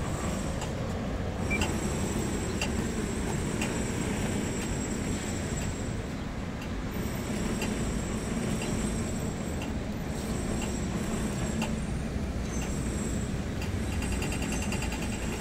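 Steady city traffic noise: a low rumble of passing vehicles, with faint ticks about once a second.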